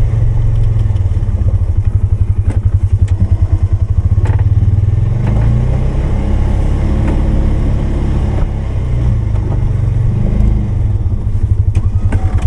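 Polaris 570's single-cylinder engine running under load while pushing snow with a plow blade, rising and easing in speed, with a few sharp clanks.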